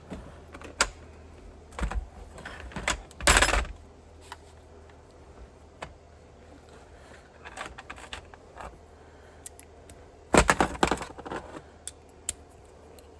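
Small metal hardware clinking and rattling as screws and bolts are handled, in irregular clicks with two louder clattering bursts about three seconds in and again about ten seconds in.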